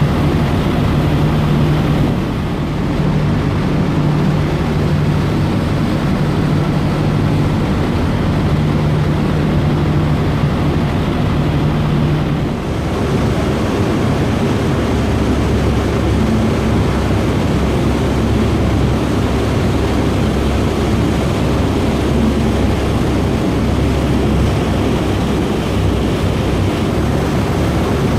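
Passenger ferry's engines running under way, a loud steady drone with a held hum, mixed with the rush of water and wind. About twelve seconds in the hum drops away and the sound turns into a broader, deeper rumble.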